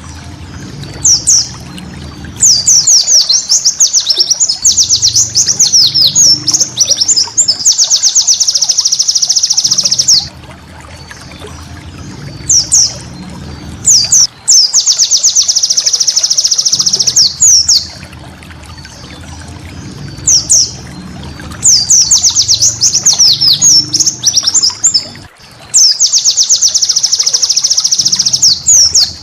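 White-eye (pleci) song: loud, high-pitched phrases of rapid sweeping chirps that run into long fast trills, repeated in bouts with short pauses between, over a steady low rumble.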